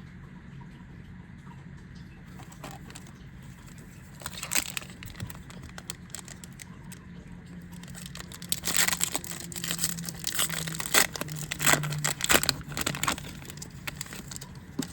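Foil trading-card booster pack crinkling and tearing as it is ripped open. There is a short crackle a few seconds in, then a longer run of crinkling in the second half.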